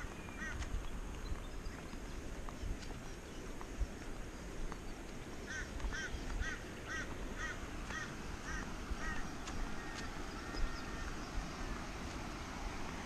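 A bird calling a run of short repeated notes, about two a second, for several seconds around the middle, over a steady low rumble.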